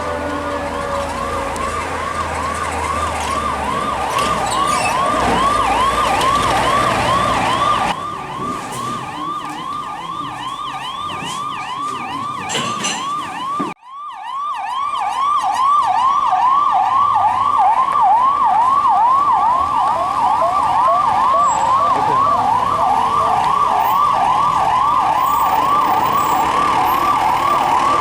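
Electronic emergency-vehicle siren in fast yelp mode: rapid rising sweeps repeating a few times a second, cut off briefly about halfway through.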